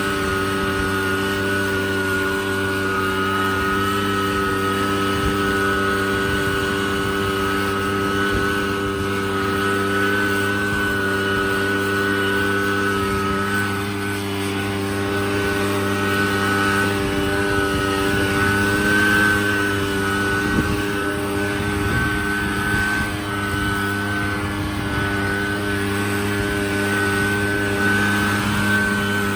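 An engine running steadily at constant speed, an even hum with a higher steady whine above it.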